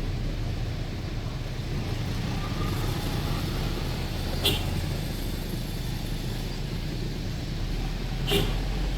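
Steady low rumble of city traffic and the tour bus's engine heard from aboard the moving bus, with two brief sharp sounds about four seconds apart, one near the middle and one near the end.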